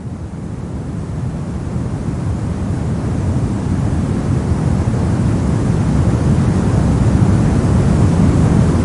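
Brown noise: a steady, deep rushing hiss, heaviest in the bass, fading in and growing gradually louder before levelling off near the end.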